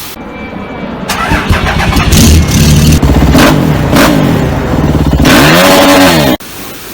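Dirt bike engine revving, its pitch rising and falling several times, up close and very loud; it cuts off suddenly near the end.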